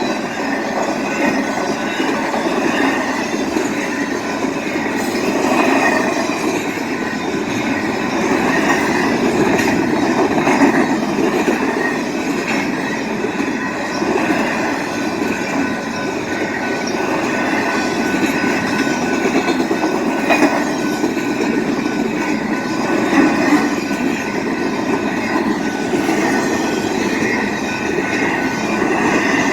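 Freight train cars rolling past close by, a steady rumble of steel wheels on rail with clickety-clack over the joints and a faint wheel squeal.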